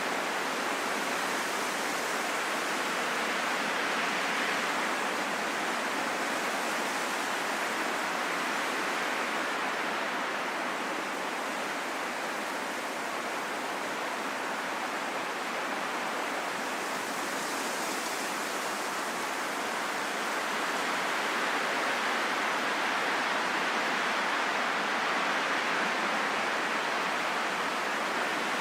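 Steady rain, an even hiss with no single drops standing out, growing slightly louder in the last third.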